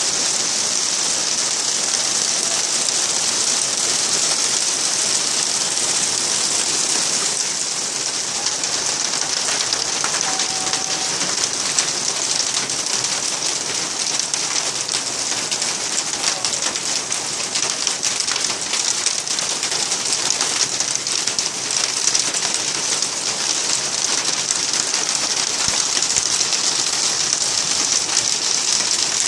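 Heavy thunderstorm rain falling steadily, with countless small drops striking surfaces.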